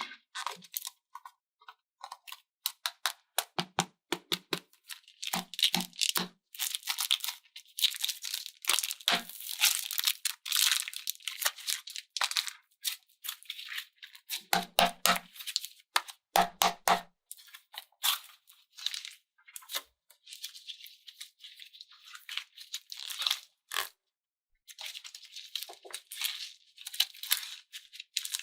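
Quick crackling and crinkling from slime and craft materials being handled, in runs with short pauses and a brief stop about 24 seconds in.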